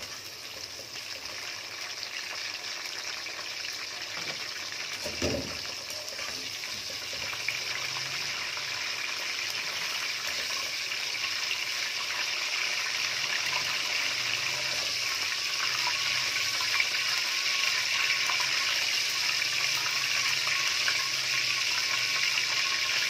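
Bitter gourd slices sizzling in hot mustard oil in a karahi: a steady frying hiss that grows gradually louder, with a soft knock about five seconds in.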